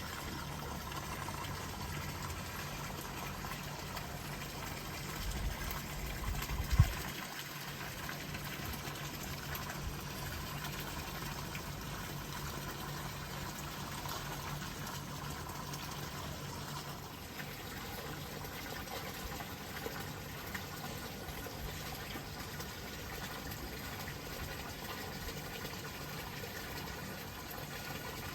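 Steady running water. A brief low rumble ends in a single thump about seven seconds in.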